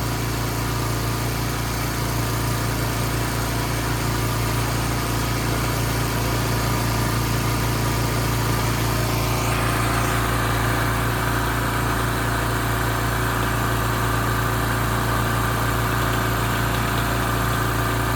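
Grapple truck engine running steadily with a strong low hum. A higher-pitched whine joins about halfway through and holds.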